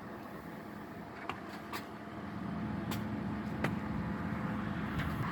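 Backhoe engine running steadily while hoisting an engine out of a motorhome, growing louder about two seconds in, with a few sharp knocks.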